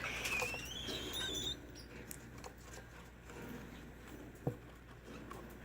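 A small pet bird's thin call rising in pitch over the first second and a half, then faint scratching and pattering with a single sharp tap about four and a half seconds in.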